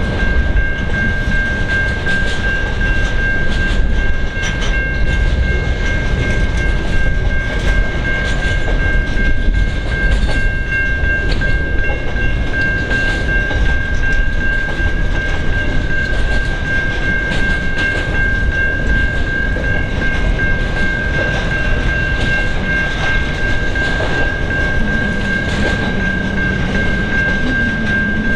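Freight train wagons rolling past, wheels clicking over the rail joints, with a steady high-pitched squeal running through the whole passage. A lower drone joins in near the end.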